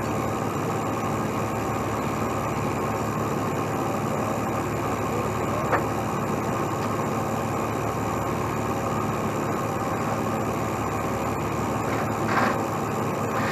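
Heavy diesel truck engine idling steadily, with a single sharp click about six seconds in and a brief louder sound near the end.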